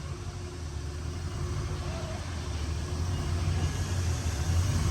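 Twin-turbo Cadillac Escalade moving off under light throttle on its freshly installed transmission, a steady low drone of engine and drivetrain growing gradually louder.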